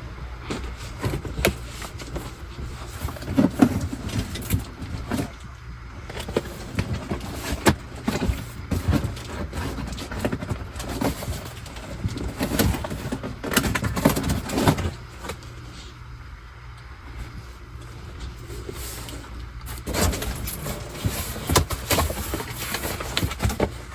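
Someone handling and going through tie-down gear: irregular clatter, knocks and rustling from the straps and their packaging, over a steady low hum.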